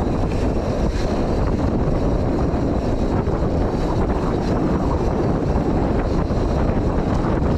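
Steady rush of wind over the microphone as an enduro mountain bike rides down a dirt trail, with a constant rumble from the tyres and light scattered clicks and rattles from the bike.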